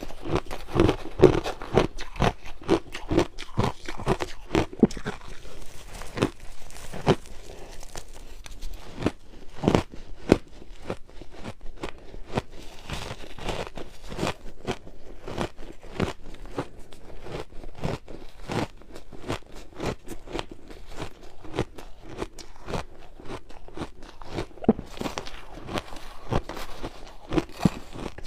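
Close-up biting and chewing of ice: a dense, irregular run of sharp crunches and cracks.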